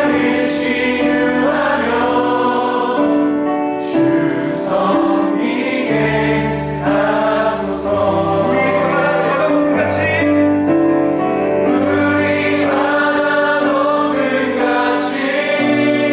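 Contemporary worship band playing live, with a group of vocalists singing together over keyboard, bass guitar and drums. Long held notes, with a few sharp cymbal-like hits along the way.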